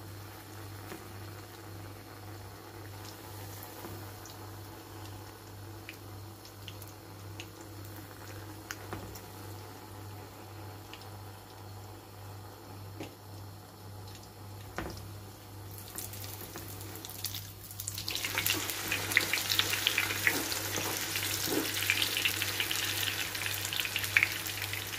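Pişi dough frying in hot oil in a pan: faint scattered crackles at first, then from about two-thirds of the way through a loud, dense sizzle and crackle of spattering oil, as the dough has been turned over onto its raw side.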